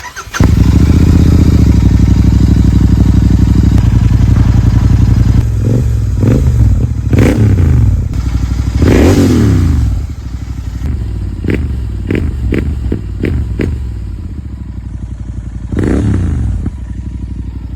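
Royal Enfield Continental GT 650's 648 cc parallel-twin engine running through AEW 103 megaphone silencers, steady for about five seconds, then revved in short throttle blips with a longer rev about nine seconds in. It settles to a lower idle, blipped repeatedly, and is revved once more near the end.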